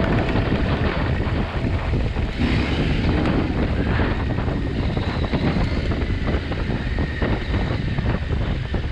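KTM 890 Adventure R motorcycle being ridden, its parallel-twin engine running steadily under heavy wind noise on the microphone.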